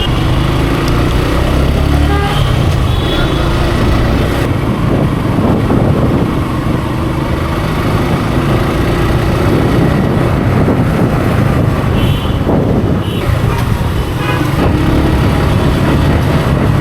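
Motorcycle engine running under way, its note shifting up and down a few times with the throttle, over steady wind and road noise.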